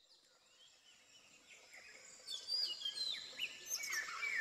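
Birds chirping and calling, fading in from near silence to a full chorus. Toward the end, one bird repeats a short downward-sliding call about twice a second.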